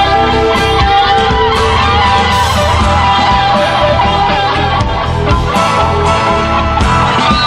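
Instrumental passage of a rock song: guitar playing over a bass line and drums, with no singing.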